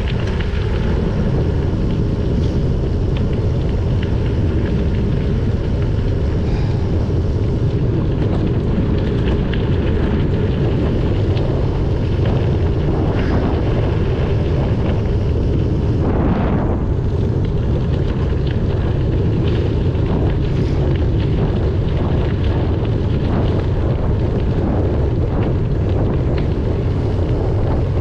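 Steady low wind rumble buffeting a GoPro Hero 9's microphone as a bicycle is ridden, with tyre and road noise underneath.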